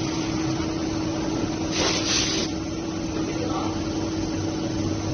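CNC wood lathe-milling machine running with a steady hum, and a brief loud hiss about two seconds in.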